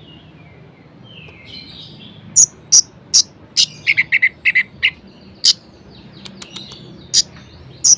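Orange-headed thrush (anis merah) singing in short, sharp, high chirps, spaced out at first, then a quick run of about eight notes around four seconds in, then a few more single notes.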